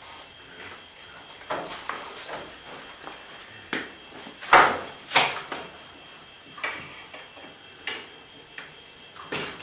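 Scattered metallic clanks and clinks of tools and hardware being handled, with the two loudest knocks about halfway through.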